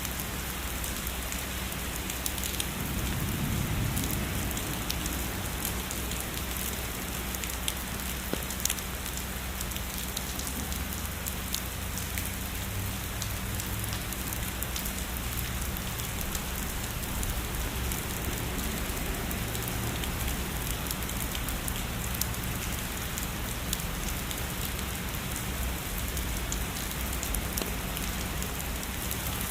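Heavy rain falling steadily: a dense, even hiss of rain, with the ticks of individual drops scattered through it.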